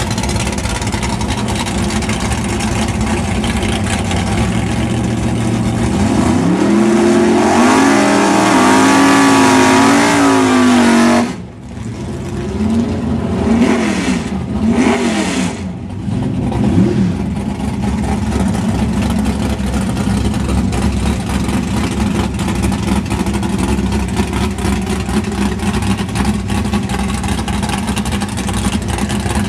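Big-block V8 drag cars, including a 1969 Plymouth Road Runner, idling with a steady rumble. About six seconds in, one engine revs up and holds high, warbling, for several seconds, and the sound cuts off abruptly. A few sharp throttle blips follow before the engines settle back to an idle at the starting line.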